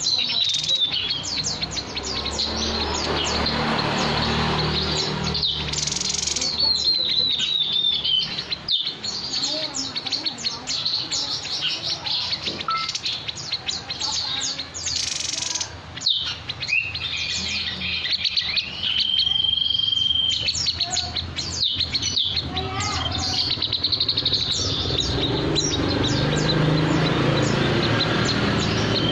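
Songbird known in Indonesia as the 'burung sniper' singing a long run of rapid chirps and trills, with one held high whistle about two-thirds of the way through.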